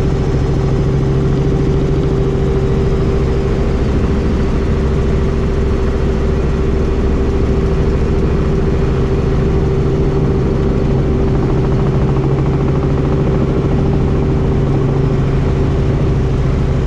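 Helicopter engine and rotor running steadily in flight, heard on board: an unbroken loud drone with a steady mid-pitched tone over a low rumble.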